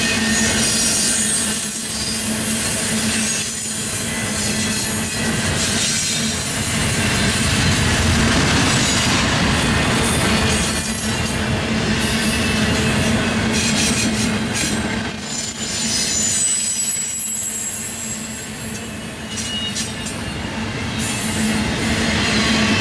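Double-stack intermodal well cars of a freight train rolling past on steel rails, a continuous rumble of wheels and cars. Thin high-pitched wheel squeal comes and goes over it.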